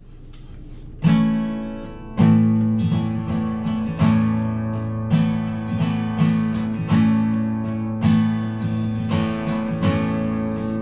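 Acoustic guitar strummed in a steady rhythm as an instrumental song intro, starting about a second in after a brief faint hiss.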